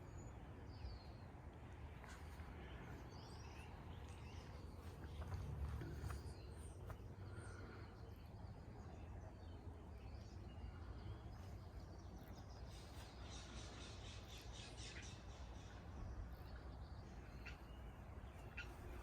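Faint bird chirps and calls, scattered and short, over a low steady rumble.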